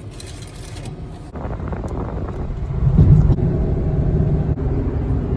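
Vehicle engine and road noise heard from inside the vehicle, a steady low rumble that grows louder about a second in and stays up.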